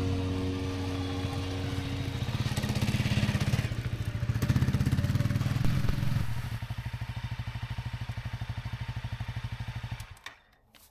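Honda CRF Rally's single-cylinder engine running, louder for a few seconds, then settling to an even idle pulse before it is switched off near the end.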